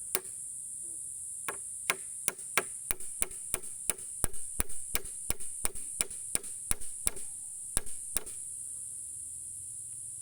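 A hand tool striking bamboo in a quick run of sharp blows, about four a second, roughly two dozen in all, stopping about eight seconds in. A steady high insect drone runs underneath.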